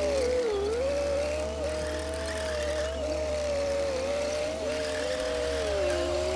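Komatsu D60P bulldozer's diesel engine running under load, its pitch wavering up and down.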